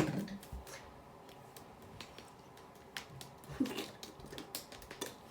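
Faint handling noises, with scattered small clicks and soft rubbing as moisturizer is put on and rubbed into a dog's face. A brief soft vocal sound comes about three and a half seconds in.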